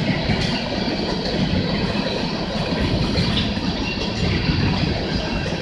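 Empty coal hopper cars rolling across a bridge overhead: a steady rumble of steel wheels on rail.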